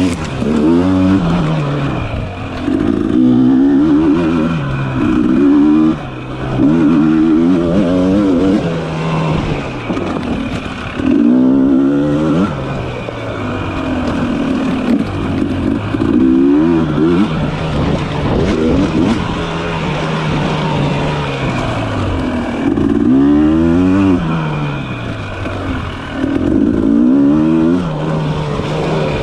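Dirt bike engine being ridden, revving up and easing off again and again: its pitch climbs with each burst of throttle and drops back between, every couple of seconds.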